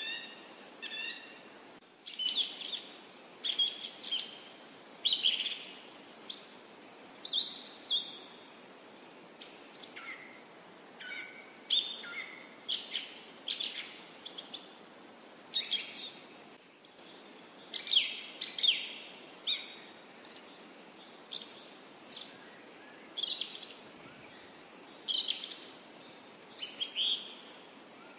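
Birdsong: a continuous series of short, high chirps, many falling in pitch, coming in bursts about once a second.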